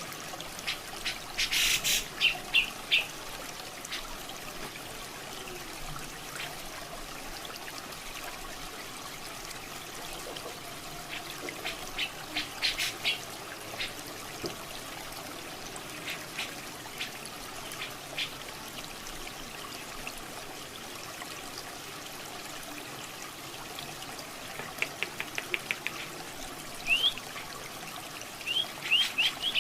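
Grey-cheeked bulbul (cucak jenggot) calling in short bursts of rapidly repeated high notes, several times, over a steady trickle of running water. The bird's calls get busier and faster near the end.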